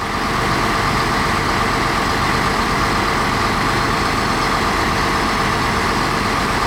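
Fire engine's heavy engine running steadily at idle, a loud unbroken sound that starts right after a cut.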